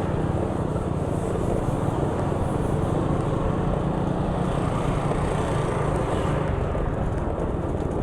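A motor vehicle driving along a street: steady engine and road noise.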